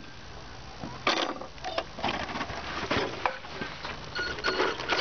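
A 1/10-scale radio-controlled monster truck driving over rough ground, with irregular clicks, knocks and scrabbling bursts from its tyres and chassis.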